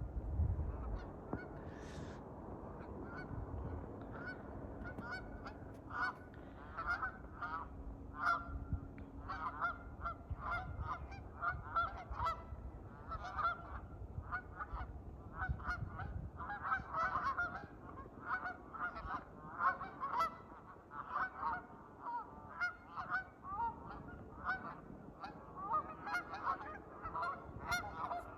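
Geese honking: a steady stream of short, repeated honks that grows busier and overlapping after the first few seconds, as from several birds calling together.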